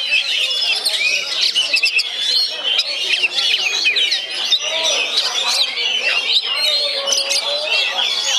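Oriental magpie-robin (kacer) singing a continuous, rapid song of varied whistles, chirps and trills that changes note every moment.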